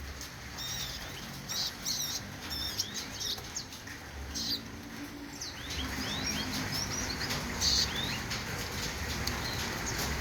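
Murai songbirds in an aviary giving short, high chirps and call notes, with a run of quick rising chirps about six seconds in.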